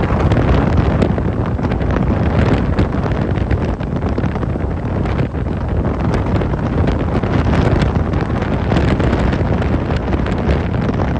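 Strong wind blowing across the microphone, a loud, steady rumbling rush of noise.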